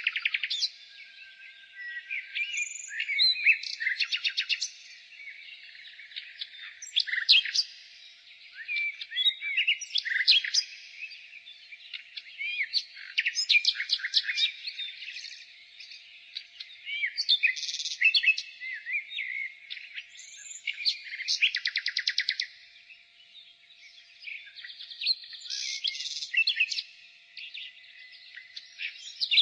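Common nightingale singing: phrase after phrase of varied whistled notes and fast rattling runs of repeated notes, with short pauses between phrases.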